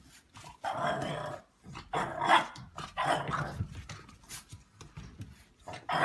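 A dog vocalizing in three short, rough bursts about a second apart, with another near the end.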